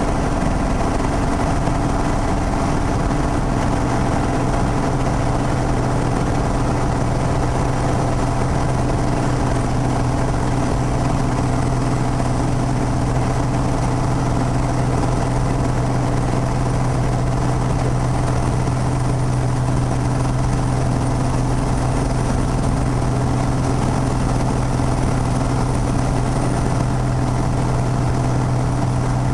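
Piper PA-32's six-cylinder piston engine and propeller giving a steady drone, with a low hum that firms up a few seconds in.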